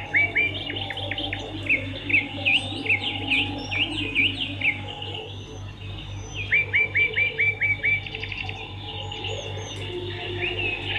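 Swiftlets twittering: runs of short, quick chirps, with a fast series of about seven chirps a little past the middle. A steady low hum runs underneath.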